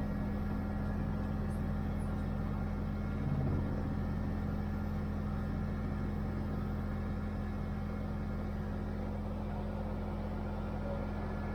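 Diamond DA-20 light aircraft's 100-horsepower piston engine and propeller running steadily at an even pitch.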